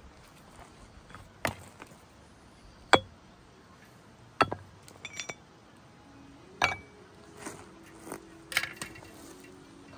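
Scattered sharp knocks and clinks of hard objects being handled and set down, about eight, spaced irregularly. Faint steady tones come in during the second half.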